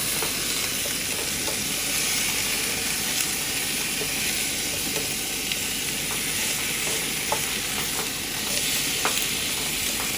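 Chicken wings sizzling as they cook over a fire: a steady frying hiss with a few faint pops.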